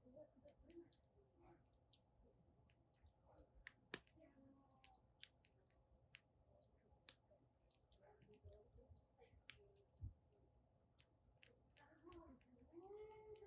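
Wood fire crackling in a fire pit: irregular sharp snaps and pops of burning firewood, faint throughout.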